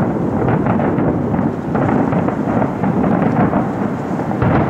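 Fireworks display: many shell bursts overlapping into a continuous rolling rumble of booms, with a heavier boom near the end.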